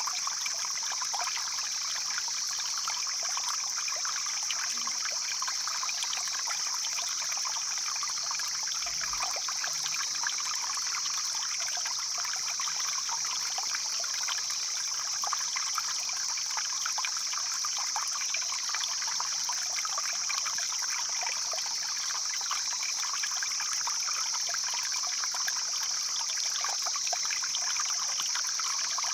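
Mountain stream flowing steadily over rocks, a continuous rush of water with a constant bright hiss and many small trickling splashes.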